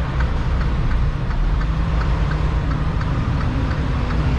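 Semi truck's diesel engine idling steadily, heard from inside the cab, with faint regular ticking over the hum.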